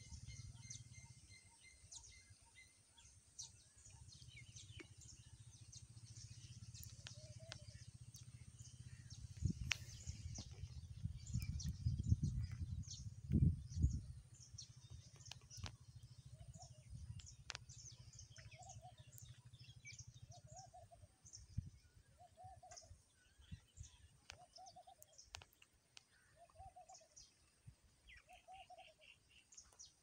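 Wild birds calling: many short, high chirps throughout, and from about halfway on a lower, arched call repeated about every second and a half. A low rumble on the microphone between about 10 and 14 seconds is the loudest sound.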